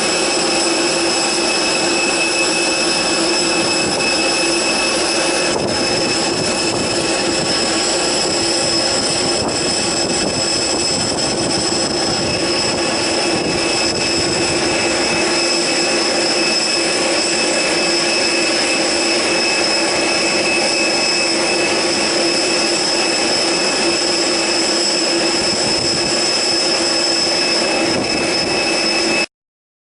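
Airbus A330 jet engines running steadily: a constant rush with a steady high whine, neither rising nor falling. It cuts off abruptly near the end.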